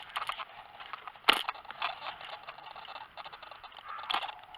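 A run of close clicks, scrapes and rustles of gear being handled, with a sharp knock about a second in and another cluster of clicks near the end.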